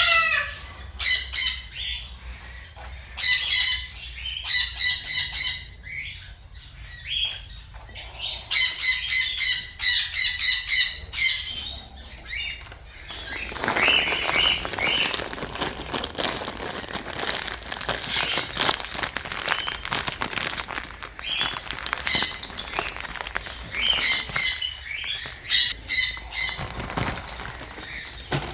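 Parrots squawking shrilly in repeated bursts of calls. Through the middle, for about eight seconds, there is a dense fluttering and rustling, with fewer calls over it.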